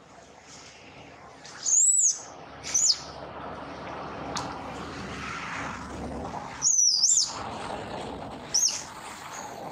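Baby monkey squealing: four short, high-pitched cries, two of them louder and longer, over a steady background hiss.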